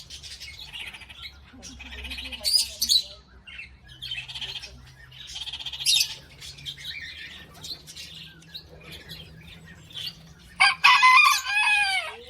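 Birds chirping and calling, with high-pitched bursts every few seconds and a loud call near the end made of several falling notes.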